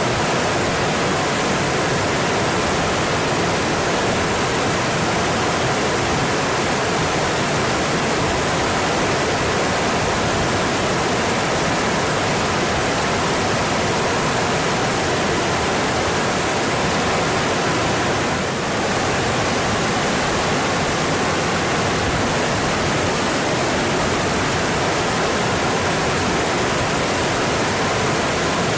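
Mountain stream flowing: a steady, even rush of water, with one brief slight dip in level about two-thirds of the way through.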